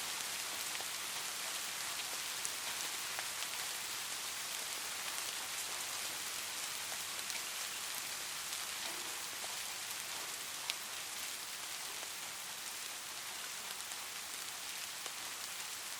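Steady light rain: an even hiss of rainfall with scattered single drops ticking on a surface, one sharper drop about ten and a half seconds in.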